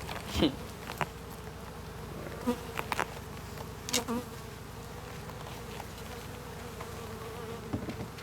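Swarm of honey bees buzzing around an opened hive, a steady wavering hum, with a few sharp knocks from the hive parts being handled.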